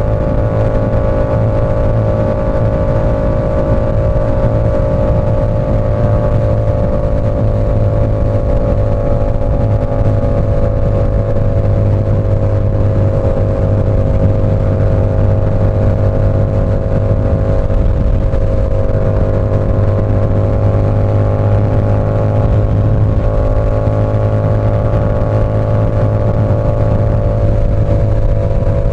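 Yamaha R7's parallel-twin engine through an SC Project CR-T exhaust, running loud and steady at a cruising speed; the pitch sags slightly and climbs back a couple of times.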